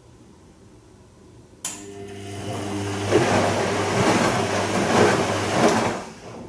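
Bosch Serie 2 VarioPerfect washing machine's drain pump switching on with a click and humming, then gurgling and rushing loudly for about three seconds before it stops.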